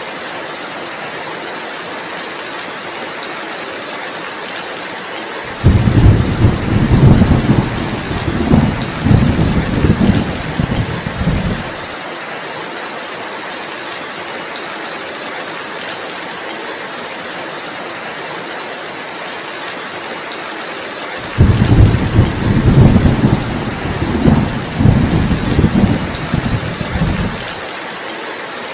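Steady heavy rain, with thunder rumbling low and loud twice: two deep rolls of about six seconds each, starting suddenly and dying away.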